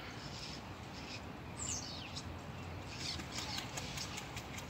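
Small birds chirping, with one quick falling call about a second and a half in and a run of rapid chirps near the end.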